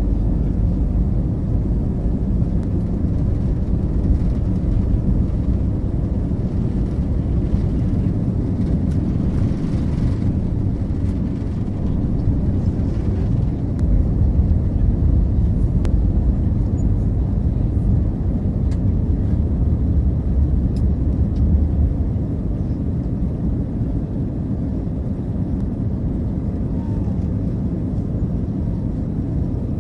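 Steady low rumble of a jet airliner in flight, swelling slightly toward the middle.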